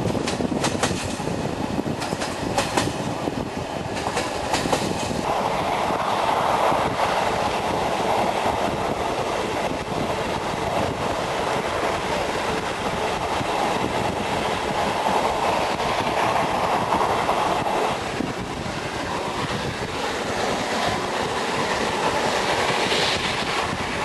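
Train rolling along the track in a steady rumble, with a run of clicks from the wheels over rail joints in the first few seconds.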